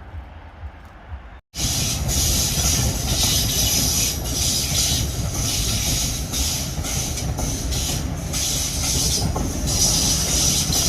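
A train passing close by on the tracks: a loud, steady rumble of wheels on rails with a strong hiss over it. It starts abruptly about a second and a half in.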